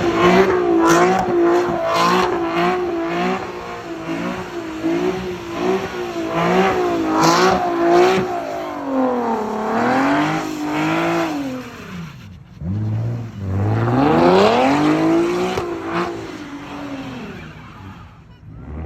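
Car engine revving repeatedly, its pitch rising and falling over and over, with longer climbing revs about two thirds of the way in.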